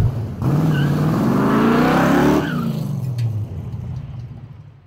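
Ford Maverick's engine revving hard as the car accelerates away, its pitch climbing for about two seconds, then dropping and fading out as the car drives off.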